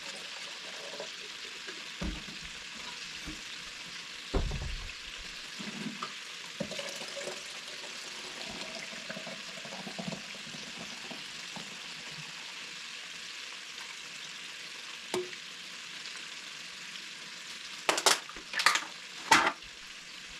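Ribs sizzling as they fry in a pan, a steady hiss, with a few light knocks and a quick run of three loud clatters near the end.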